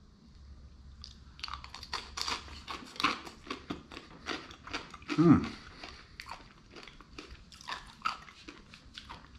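Close-up crunching and chewing of a deep-fried crab wonton dipped in sauce: a dense run of crisp crackles.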